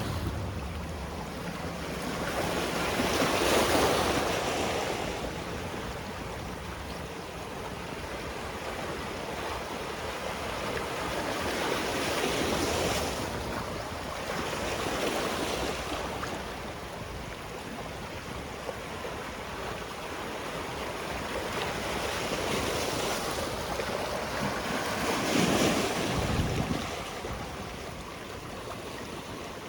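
Sea waves breaking on a rocky shore, a steady wash of surf that swells several times as waves come in, loudest at about four seconds and again near the end.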